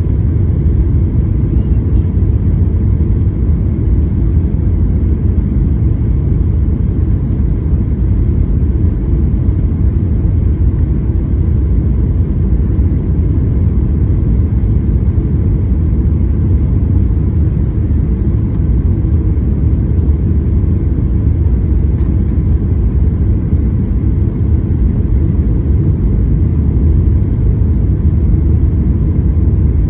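Airliner cabin noise: a steady low rumble of engines and airflow heard from inside the passenger cabin, unchanging throughout.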